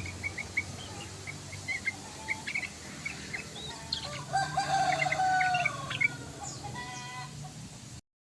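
Yellow-vented bulbul song: short sharp chirps, then a busier burst of notes. A longer, lower drawn-out bird call, the loudest thing here, comes in about four seconds in and lasts a second and a half. All sound cuts off just before the end.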